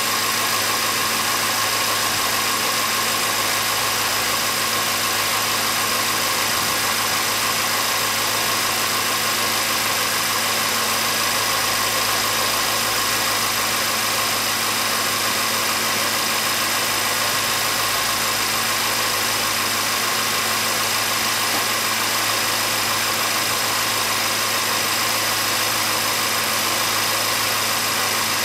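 Range Rover Supercharged's 5.0-litre V8 idling with a steady hum while the air suspension raises the car on its newly fitted front air spring.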